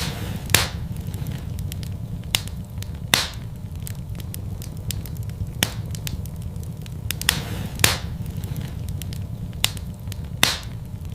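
Fire in a fireplace crackling, with sharp, irregular pops roughly every second over a steady low rumble.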